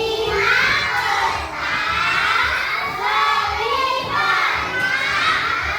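A class of children's voices shouting and chanting loudly together.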